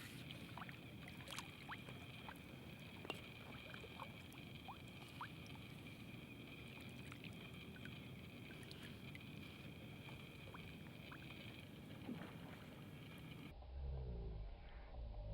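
Faint sounds of a kayak on the water: scattered small clicks, drips and chirps over a steady high hum. Music comes in abruptly near the end.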